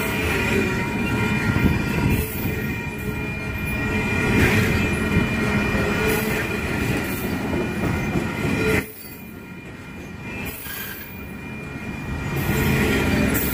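Intermodal freight train cars passing close by: steel wheels rumbling and clattering on the rails, with a steady high-pitched wheel squeal. The sound drops suddenly about nine seconds in and builds back up near the end.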